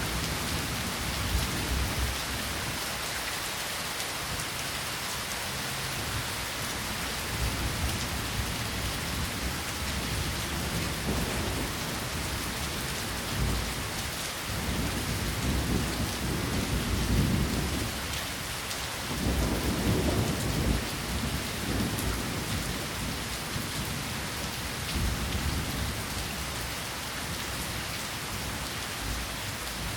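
Rain falling steadily, a dense even hiss of drops, with deeper low rumbles swelling up for a few seconds around the middle.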